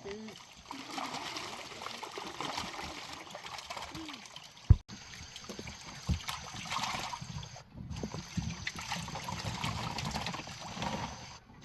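Water pouring and splashing into a fish pond as live fish are tipped in from their container, with a sharp knock a little under halfway through.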